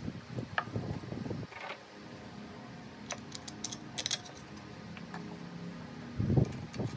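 Light clicks and taps of small parts being handled while a leaf blower's carburetor and throttle cable are put back together, over a steady background hum. A louder knock and handling noise comes near the end.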